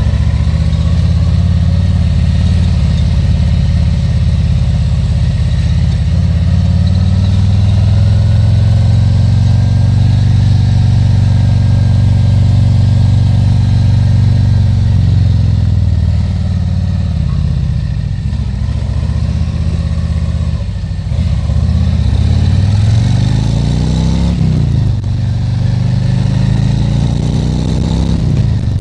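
Harley-Davidson Tri Glide Ultra's Milwaukee-Eight 114 V-twin running at a steady cruise, then easing off for a few seconds. It then accelerates with a rising pitch, with a gear shift about 25 seconds in.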